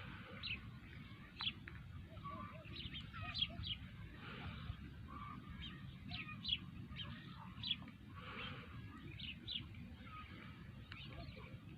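Several small birds chirping, with short calls coming every second or so throughout, over a low steady rumble.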